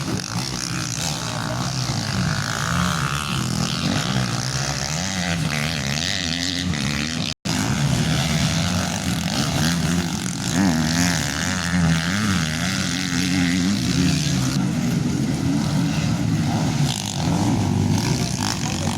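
Motocross motorcycle engines revving up and down as they race, the pitch rising and falling continually, with a momentary cut in the sound about seven seconds in.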